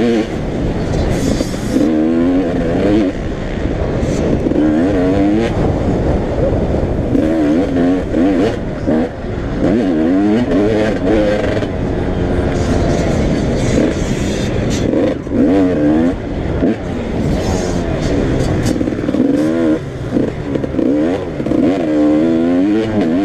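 Several motocross bikes racing, their engines revving up and dropping back again and again, overlapping one another.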